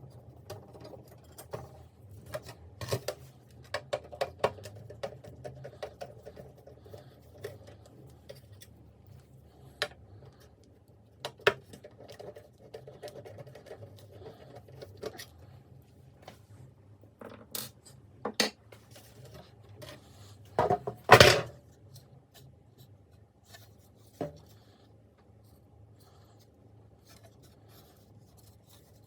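Small hard objects and tools being handled on a work surface: scattered clicks, scrapes and clinks, with one louder clatter about two-thirds of the way through.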